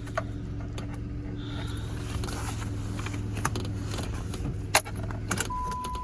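Chrysler New Yorker engine idling steadily at operating temperature, then switched off about five seconds in, with sharp clicks as the key is worked. A steady electronic warning chime starts right after the engine dies.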